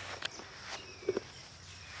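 Footsteps on the ground, a few short scuffs and crunches about a quarter-second and a second in.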